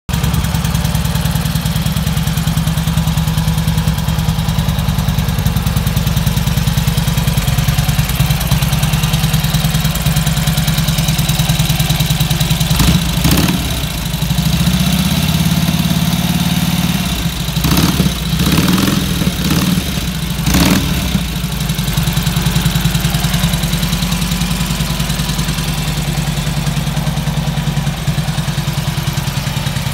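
1947 Indian Chief's side-valve (flathead) V-twin idling with a steady, even beat, with the throttle blipped briefly a few times in the middle.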